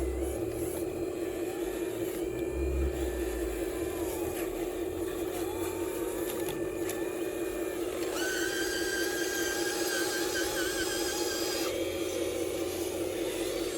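Small electric motors of radio-controlled construction models running with a steady whine. A second, higher-pitched motor whine joins about eight seconds in and cuts off almost four seconds later.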